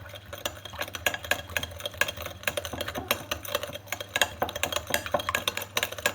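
A utensil stirring sugar into warm water in a bowl or cup, with rapid, irregular clinks against the side of the container. A steady low hum runs underneath.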